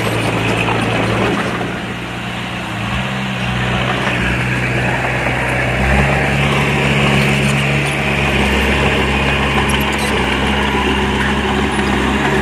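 Diesel engine of earthmoving machinery running steadily, its note dropping a little about two seconds in and picking up again about six seconds in.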